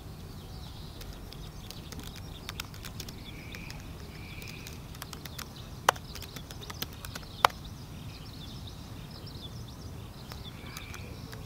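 Quiet outdoor background with a steady low rumble, a few short faint chirps, and two sharp clicks about a second and a half apart in the second half.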